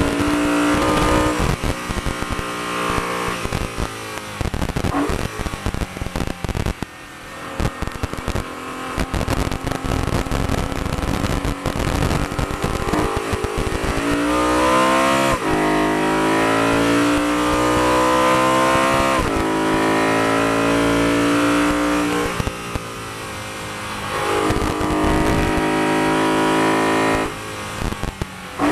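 BMW E92 M3's V8 engine heard inside the cabin, revved hard and climbing in pitch, with quick upshifts of the M-DKG dual-clutch gearbox that drop the pitch suddenly a few times. For a stretch early on the engine is off the throttle and the sound turns to a rougher, unpitched rumble before it pulls hard again.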